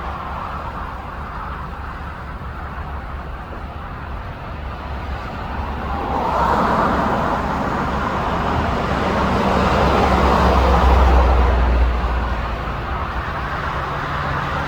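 Road traffic noise: a steady rumble of passing vehicles, swelling from about six seconds in as a vehicle passes, loudest around eleven seconds, then easing off.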